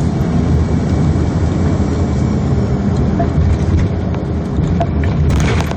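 Steady rumble of an airliner's engines and airflow heard inside the passenger cabin, just after landing, with a brief hiss near the end.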